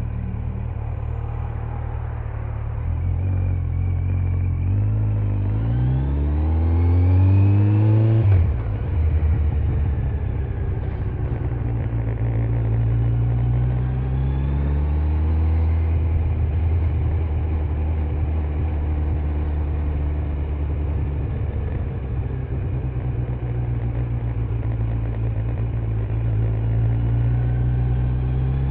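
Kawasaki Z900's inline-four engine on its stock exhaust pulling away: it runs steadily for a few seconds, revs climb for about five seconds, and the revs drop sharply at a gear change. It then pulls up again and settles into a steady low-speed run, rising once more near the end.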